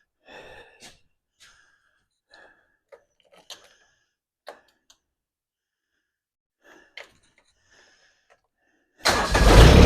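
Faint scattered clicks and light knocks of handling, then about nine seconds in the Mahindra eMax 20 tractor's diesel engine starts and runs loudly.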